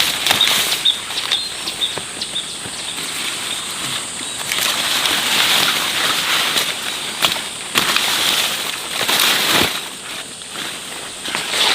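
Dry vegetation rustling and crackling, with scattered sharp snaps; a faint steady high tone runs underneath.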